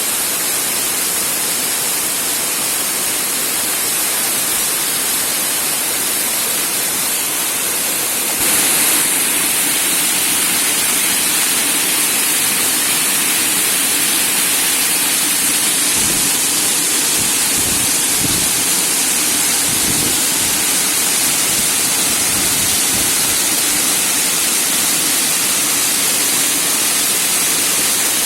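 Shumka waterfall pouring, a steady loud rush of falling water. It steps up in level about a third of the way through, and a few low bumps come in around the middle.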